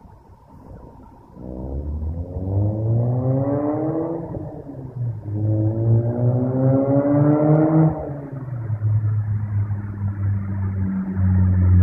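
Mazda RX-8's rotary engine revved twice through an Agency Power dual racing muffler: each rev climbs for about three seconds and drops back sharply, then the engine settles into a steady low idle.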